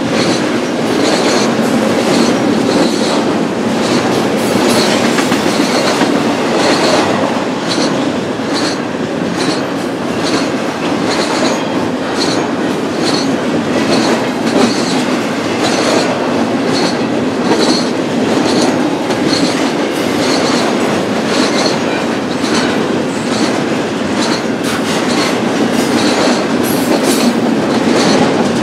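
Freight cars of a BNSF intermodal stack train rolling past at speed: a steady rumble of wheels on rail, with regular clicks about once a second as the wheels cross rail joints.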